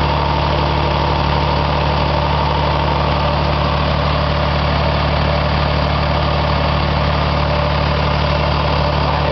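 Biogas-fuelled generator engine running steadily on biogas, an even low drone with no change in speed.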